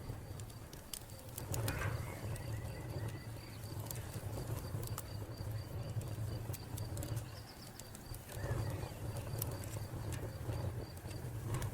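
Wood fire crackling with scattered sharp pops, over a steady, evenly pulsing cricket chirp and a couple of bird calls.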